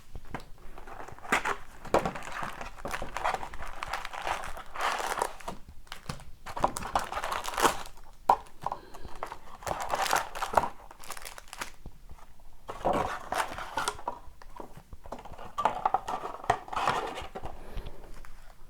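Plastic wrapping crinkling and tearing in irregular bursts as a sealed hobby box of hockey cards is unwrapped and opened.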